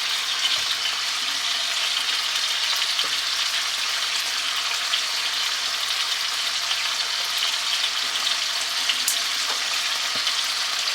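Chicken breasts browning in olive oil in a skillet: a steady frying sizzle with a few small pops.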